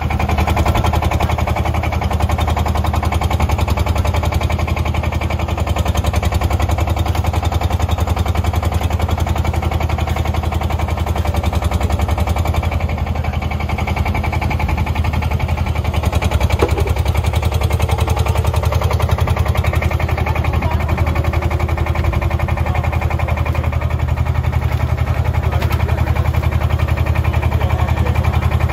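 An engine idling steadily close by, with a low hum and a rapid, even knock.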